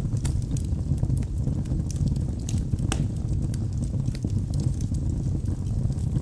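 Logs burning in a fireplace: a steady low rumble of flames with frequent sharp crackles and pops scattered irregularly through it.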